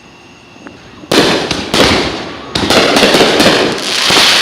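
Fireworks going off: a sudden loud bang about a second in, then a rapid string of sharp cracks and crackling.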